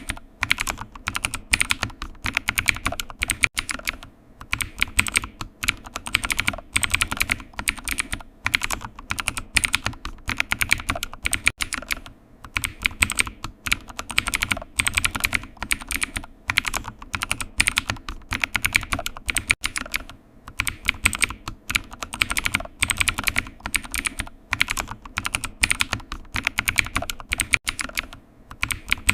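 Continuous typing on a computer keyboard: a steady patter of key clicks in quick runs, with short pauses between them.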